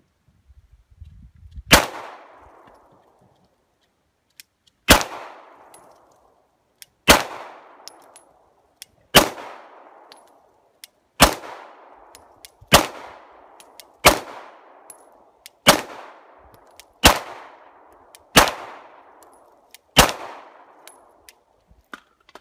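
Eleven 9mm pistol shots fired one at a time, one to three seconds apart. Each is a sharp crack with a short decaying tail.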